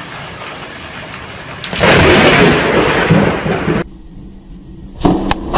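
Rain falling steadily, then, just under two seconds in, a loud close thunderclap that rumbles for about two seconds and stops abruptly. Near the end a second sudden loud crack, a close lightning strike.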